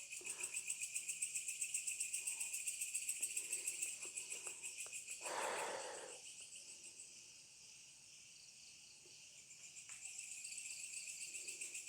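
Rapid, high-pitched pulsing trill of a night-calling creature, about five pulses a second, fading after about four seconds and building again near the end. A brief rustling rush about five seconds in.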